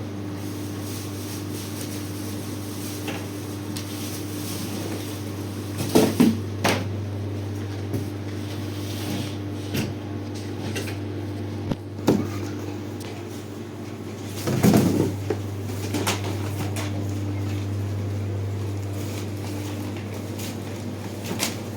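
Goods and cartons being handled and set on shop shelves: a few scattered knocks and clatters, the loudest about six seconds in and again around fifteen seconds, over a steady low electrical hum.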